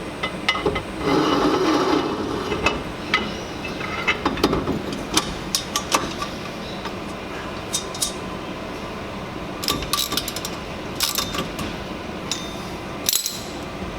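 Metal hand tools clinking, tapping and knocking on metal parts during garage work: a string of irregular sharp clicks and knocks over steady background noise.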